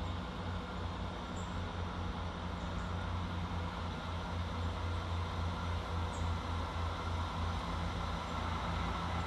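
Class 158 diesel multiple unit's underfloor diesel engine running steadily as the train pulls away, a low even hum that grows slightly louder.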